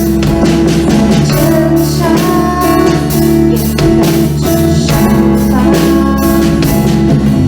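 A live band playing an instrumental passage of a pop-rock song, with a steady drum beat under guitar and sustained chords.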